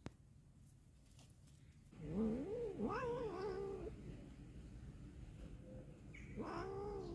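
A cat meowing twice: a long, rising and wavering meow about two seconds in, and a shorter one near the end. A short sharp click comes right at the start.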